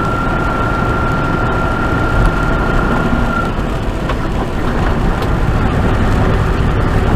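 Tractor-trailer engine and road noise heard from inside the cab while driving on a wet road, a steady low drone. A thin steady whine runs along with it and stops about three and a half seconds in.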